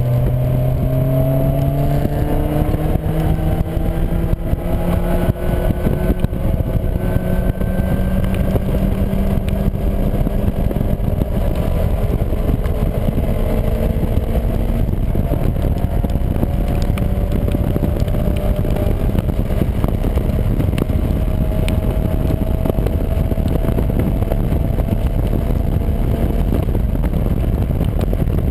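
Caterham 1.6's four-cylinder engine under hard acceleration, heard from the open cockpit: its note climbs slowly and steadily down a long straight. A heavy rush of wind and road noise runs underneath.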